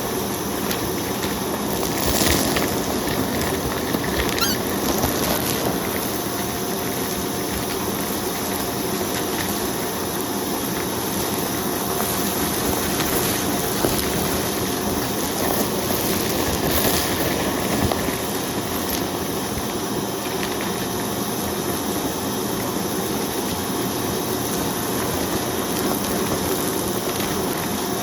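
Vacuum cleaner running steadily with a faint whine, with a few short crackles of debris being sucked up.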